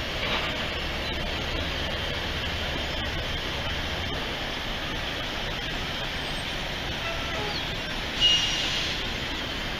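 Steady rushing noise of vehicle engines and machinery, with a low hum that fades about four seconds in and a short, high squeal about eight seconds in.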